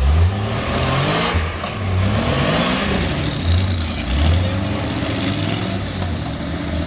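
A vehicle engine revs up and down repeatedly, its pitch climbing and dropping several times. A thin high whine starts about three seconds in, rises, then holds steady.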